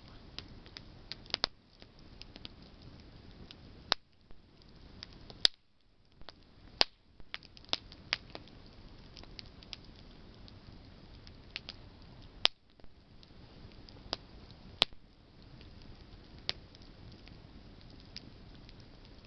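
Campfire of burning branches crackling: irregular sharp pops and snaps, a few of them much louder, over a soft steady hiss.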